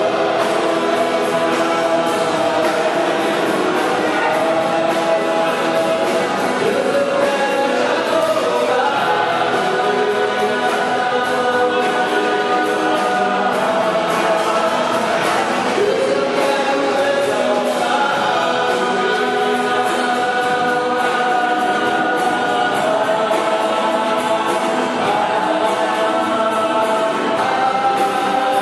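A choir singing a song with instrumental accompaniment, voices holding and gliding between sustained notes at a steady level.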